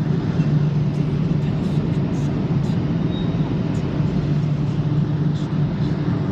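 Steady low mechanical drone of a car wash heard from inside a car, with a hum that holds one pitch throughout and faint scattered ticks above it.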